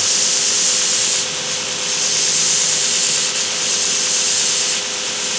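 2x72 belt sander running at slow speed with a small canary wood handle rolled against the belt to round its end: a steady hissing grind over the motor's hum, swelling and easing a few times as the wood is pressed in and eased off.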